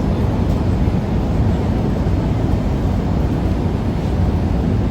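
Steady low rumble of cabin noise inside a Boeing 787-8 Dreamliner in flight: engine and airflow noise heard from a passenger seat.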